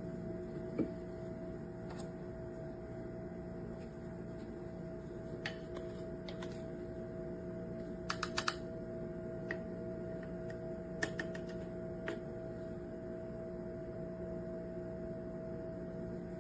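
A steady low hum with scattered light clicks and taps, including a quick run of four clicks about eight seconds in.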